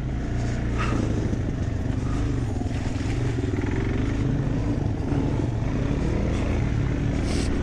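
Dirt bike engine running at a steady, moderate pitch under light, even throttle, wavering only slightly.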